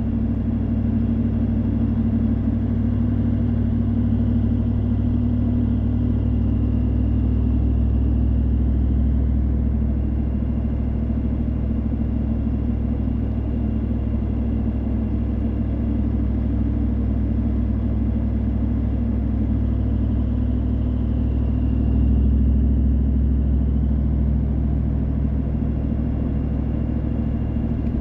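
Car driving along: a steady, low drone of engine and road noise that swells a little about two-thirds of the way through.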